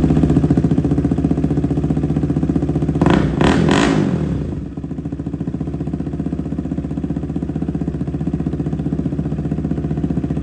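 KTM Duke 250's single-cylinder four-stroke engine running loud through a freshly fitted SC Project aftermarket exhaust, just after starting. It gets a brief blip of the throttle about three seconds in, then settles to a steady idle.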